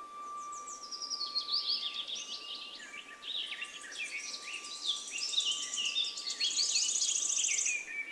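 Songbirds singing in a busy chorus of rapid chirps and trills, with a faint steady high tone underneath. The song breaks off suddenly near the end.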